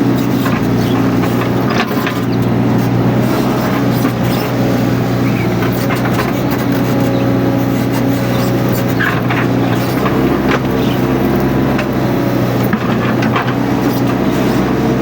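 Mini excavator's diesel engine running steadily, with scattered knocks and clicks over it.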